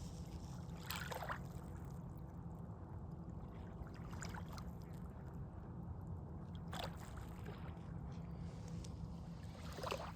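Small waves lapping on a sandy lake shore, a short wash about every three seconds, over a low steady rumble of wind on the microphone.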